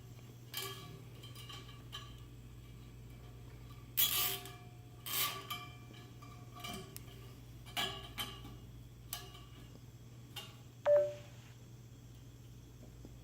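Scattered light metallic clinks and knocks, with a couple of short rasps about four and five seconds in, from hands working on the lift table's metal frame and hardware; the sharpest clink, with a brief ring, comes near the end.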